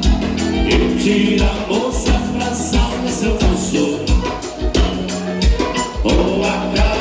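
Live gaúcho dance-band music: accordion with bass and drums keeping a steady dance beat.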